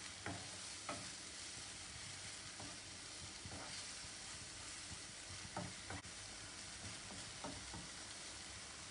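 Tomato, garlic and spice masala sizzling steadily in hot oil in a pan. It is stirred now and then, giving a few short scrapes and knocks against the pan. The masala is being fried down until the oil separates.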